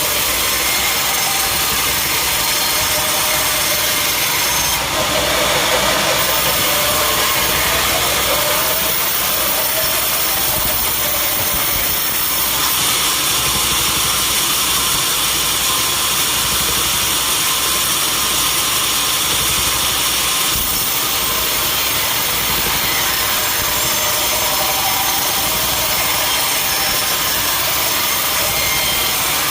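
Sawmill saw cutting through a mahogany log over a steady engine drone. The high cutting hiss grows stronger for several seconds in the middle, then eases.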